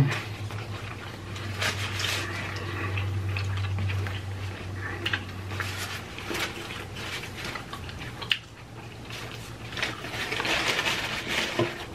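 Close-miked chewing and wet mouth sounds of people eating tacos and burritos, with scattered short crunches and clicks. A low steady hum runs underneath and stops about six seconds in.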